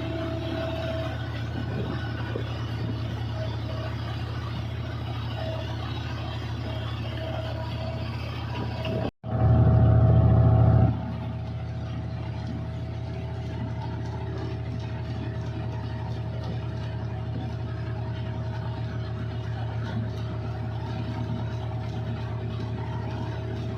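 Combine harvester's engine and machinery running steadily with a low drone and a steady whine. About nine seconds in the sound cuts out for an instant, then comes back louder for about two seconds before settling to the same steady running.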